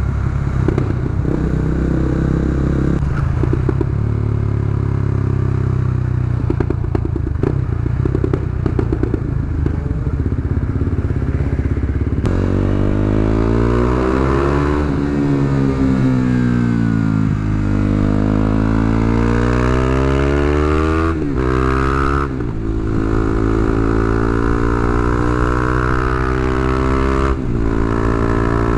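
KTM Duke 390's single-cylinder engine through an Akrapovic exhaust with the dB-killer removed, loud and open. It runs at a low, steady speed for about twelve seconds, then its pitch rises and falls in several long sweeps as the revs climb and drop, and it holds a higher steady note near the end.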